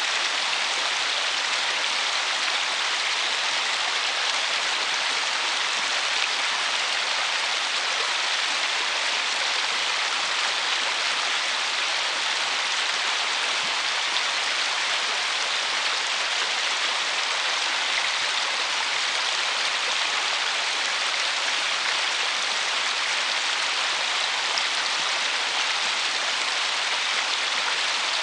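River water running over a shallow riffle, a steady even rush that does not change.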